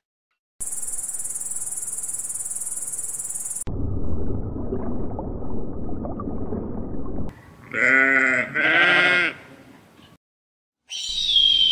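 Separate animal recordings in a row: a steady high-pitched grasshopper buzz for about three seconds, then low rushing noise, then a sheep bleating twice. Near the end a red-tailed hawk's scream begins, falling in pitch.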